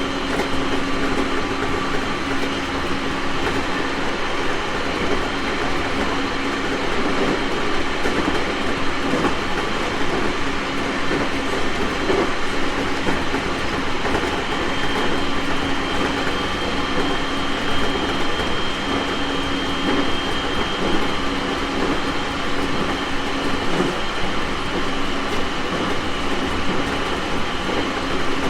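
JR East 701 series electric multiple unit running at a steady speed: continuous rolling noise of wheels on rail, with a steady motor hum.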